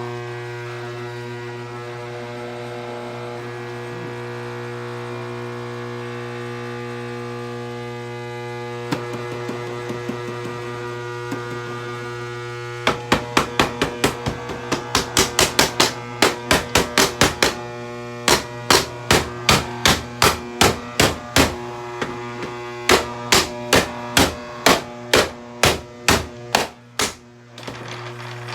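Hoover vacuum cleaner motor running with a steady electric hum. Loose pieces fed into it knock inside, first now and then, then from about halfway in as runs of rapid clacking, several hits a second with short breaks.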